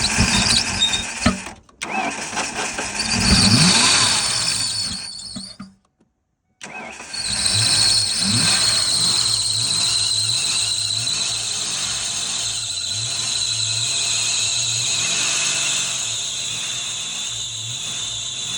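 1992 Ford Mustang GT's 5.0-litre V8 cranking and firing, its speed rising in a surge about three seconds in, then after a brief break running steadily with a constant high whine over the engine note.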